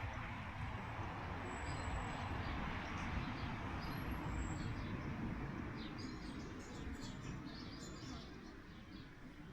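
Small birds chirping and twittering over a steady rushing background, which swells through the middle and fades near the end. A few short, thin, high whistles come in the first half.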